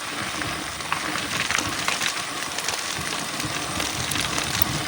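Mountain bike rolling fast downhill over a rough dirt trail: tyres crunching on the ground with many small rattles and clicks as the bike goes over bumps, and a low rumble underneath.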